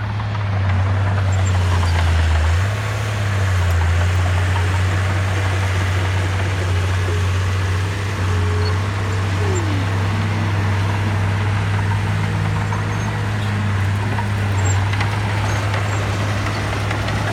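Heavy diesel engine of earthmoving machinery running steadily, with a brief change in its note about three seconds in.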